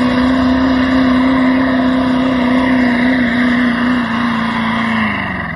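Diesel pulling truck's engine running loud at high, steady revs. Its pitch sags a little, then falls away about five seconds in.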